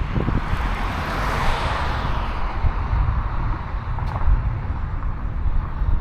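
Wind buffeting the microphone in a constant gusty low rumble. Over it, a vehicle's tyre hiss swells and fades in the first few seconds as it drives past.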